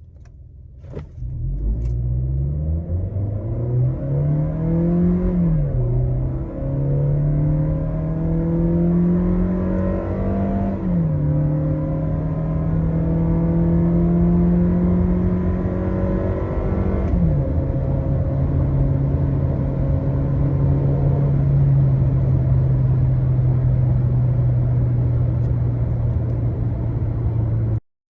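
2019 Toyota Innova's 2.0-litre four-cylinder petrol engine accelerating hard from a standstill. The engine note climbs and drops back with an upshift about 5, 11 and 17 seconds in, then holds fairly steady until it cuts off near the end.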